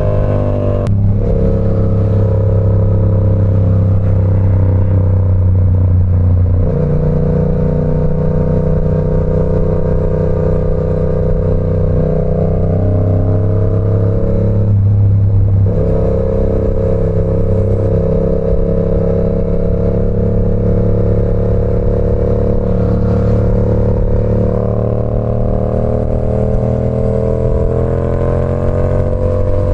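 Yamaha R7's parallel-twin engine running through an SC Project CR-T exhaust while riding, loud. Its note climbs slowly and breaks off briefly three times, about 1, 7 and 15 seconds in, before picking up again lower.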